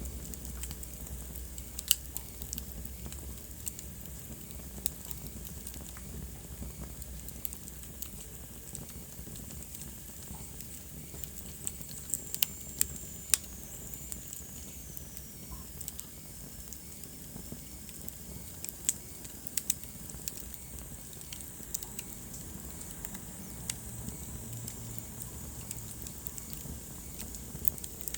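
Wood fire burning in a fireplace: a steady low rumble and hiss with irregular sharp crackles and pops, a few louder pops close together about halfway through. Briefly a faint high whistle falls in pitch.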